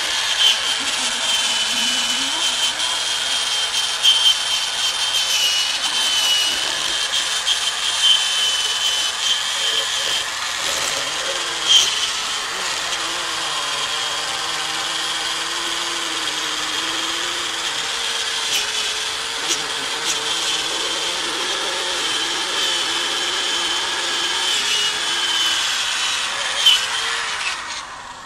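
Handheld power tool running continuously while pressed against metal, a steady grinding hiss with a wavering whine, as rust is scrubbed off the brake parts. It winds down just before the end.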